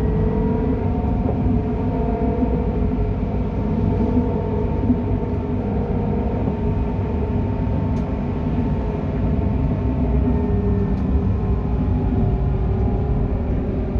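Tram 224 running with a weird noise: several steady tones held over a low rumble, their pitch wavering slightly.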